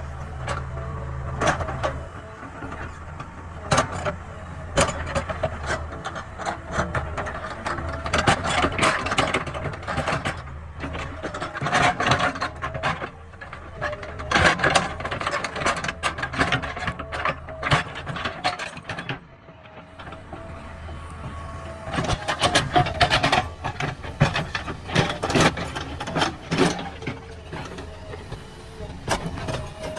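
JCB backhoe loader working: diesel engine running under load, with many irregular clanks and knocks from the bucket and steel linkage, easing briefly about two-thirds of the way in.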